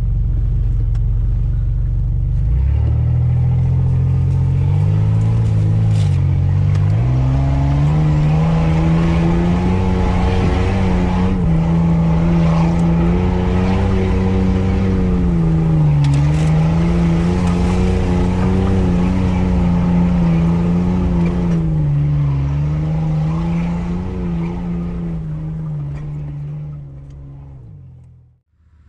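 Off-road 4x4's engine pulling along a rough dirt track, its note rising and falling repeatedly with the throttle. It fades out near the end.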